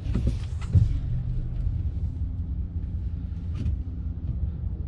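A car idling, heard as a steady low rumble, with a single knock about a second in.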